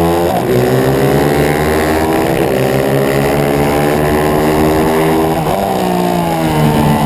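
Racing pit bike's 140cc single-cylinder four-stroke engine at high revs, heard on board: the pitch climbs steadily, dropping sharply and climbing again three times, near the start, about two and a half seconds in and about five and a half seconds in.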